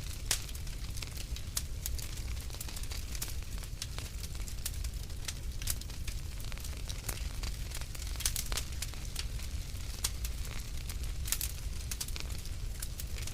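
Wood fire crackling, with irregular sharp snaps and pops over a steady low rumble of the flames.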